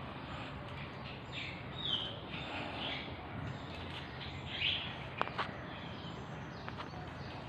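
Birds chirping in short high calls, several times, over a steady low hum; two sharp clicks come about five seconds in.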